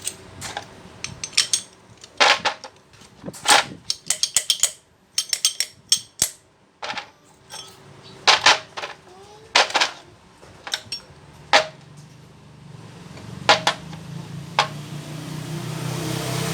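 Sharp metallic clinks and knocks, one after another at an uneven pace, as metal jackhammer parts and tools are handled and tapped. From about twelve seconds in, a low steady hum builds up.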